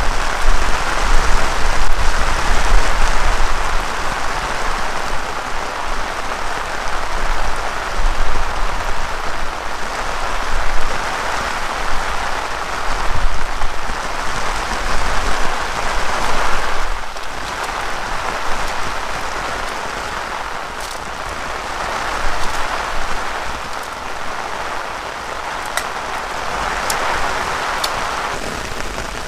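Heavy rain falling steadily, its noise swelling and easing in gusts of wind, with a low wind rumble strongest in the first few seconds.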